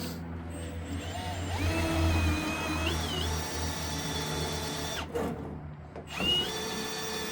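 Power drill boring holes in metal: the motor winds up with a rising whine and runs steadily, stops about five seconds in, then starts again a second later and spins up quickly.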